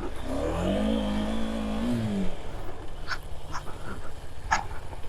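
Motorcycle engine revving up, holding its pitch briefly and then easing off, over a steady low rumble. A few short sharp knocks follow in the second half.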